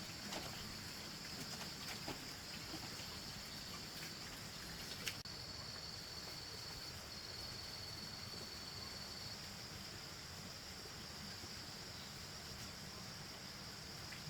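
Steady high-pitched buzz of insects, with a few faint knocks in the first five seconds.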